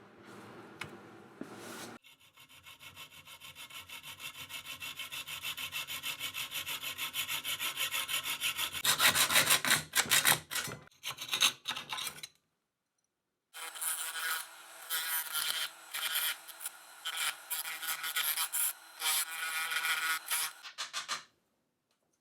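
A saw cutting a small sheet-metal pot down to height with quick back-and-forth strokes that grow louder and faster. After a short pause, the cut edges are smoothed with irregular rubbing strokes.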